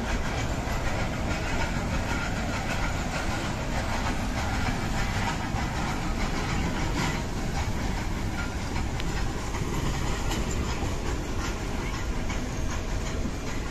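Nilgiri Mountain Railway metre-gauge toy train running, heard on board: a steady rumble and rattle of the moving coaches with faint clicks of the wheels over the rails.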